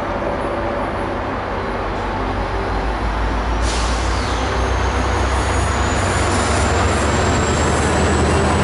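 Diesel locomotive-hauled passenger train approaching, its engine rumble slowly growing louder, with a thin high squeal of wheels or brakes from about four seconds in that rises slightly in pitch.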